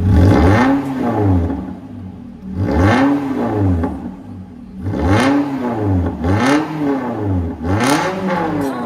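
Toyota Corolla Altis 2ZR-FE 1.8-litre inline-four revved in five quick throttle blips through an MS-R valved aftermarket exhaust, the exhaust note rising sharply and falling back each time.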